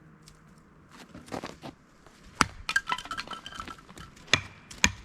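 Sharp clinks and cracks of ice-glazed wood being knocked and broken, glassy and brittle. The hits start about a second in and come scattered, the loudest few ringing briefly.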